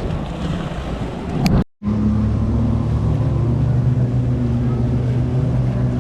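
Wind and water noise on the microphone, then after a brief dropout about a second and a half in, a watercraft engine running steadily with an even hum.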